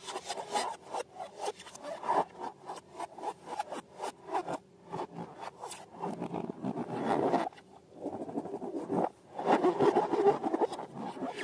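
Slime being worked by hand: squishy rubbing with many small crackling clicks, in uneven bursts that grow louder about two-thirds of the way through and again near the end.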